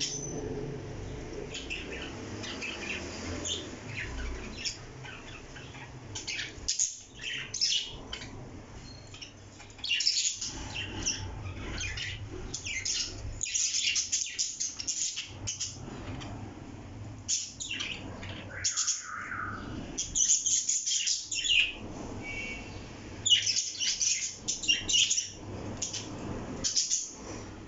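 Parrot chirping and squawking: many short, sharp high-pitched calls coming in clusters, busier in the second half.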